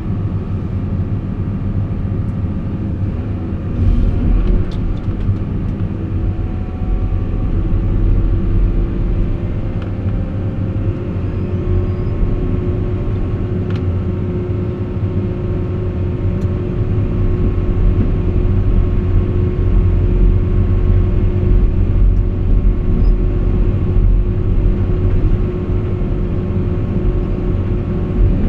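Caterpillar 349E excavator's diesel engine running with a steady low rumble and a held tone, getting somewhat louder about four seconds in. A few light clicks or knocks come around four to six seconds in.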